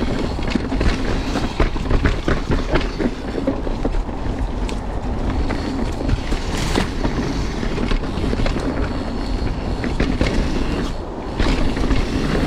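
Mountain bike rolling fast down a dirt trail: steady tyre and wind noise with constant clicking and rattling from the bike over rough ground.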